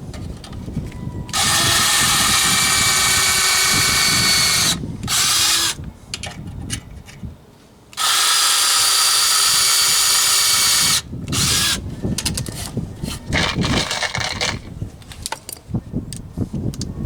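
Power drill running in two long steady bursts of about three seconds each, with a short burst between them and light clatter of handling in the gaps.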